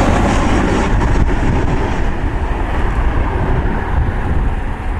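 Jet airliner engines: a loud, steady rumble with a rushing hiss that eases off about a second in as the plane moves away.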